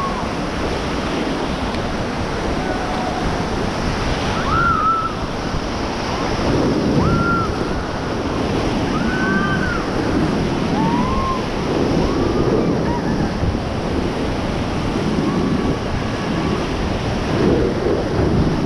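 Whitewater river rapids rushing steadily under a raft, with wind buffeting the microphone. Short rising-and-falling shouts from the rafters cut through the water noise several times.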